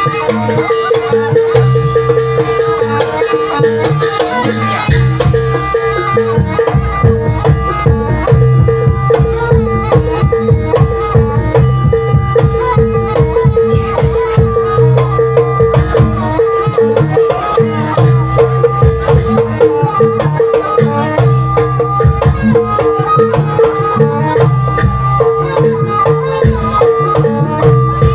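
Traditional Javanese ensemble music with hand drums beating a fast, steady rhythm, repeating metallophone-like tones, and one long held high note over it all.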